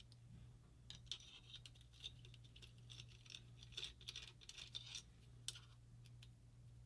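Faint scratching and light clicks of small parts being handled and worked loose on a paintball marker, over a low steady hum.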